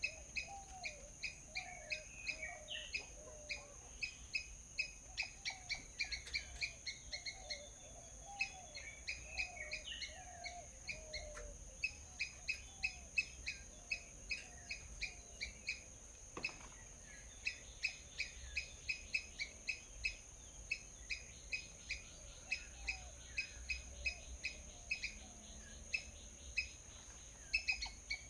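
Small birds chirping rapidly and continuously, several short high chirps a second, with lower warbling notes from another bird in the first half, over a steady high-pitched hiss.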